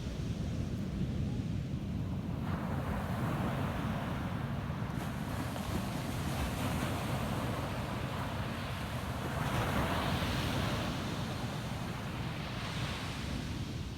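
Ocean surf washing on a beach: a wash of breaking water rises about two seconds in, swells to its loudest near ten seconds and eases off near the end, over a steady low rumble.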